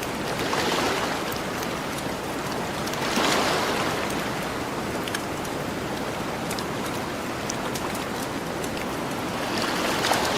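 Gentle ocean waves washing onto the shore, swelling and falling back three times, over a campfire crackling with small scattered pops.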